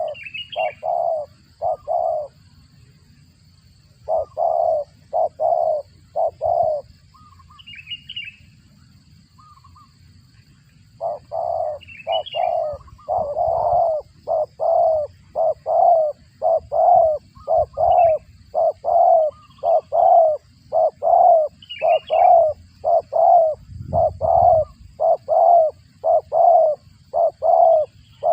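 Spotted dove (terkukur) calling with short repeated coo notes, first in clusters of three or four with pauses, then an even run of about one and a half notes a second from about a third of the way in. Faint high chirps of small birds come now and then.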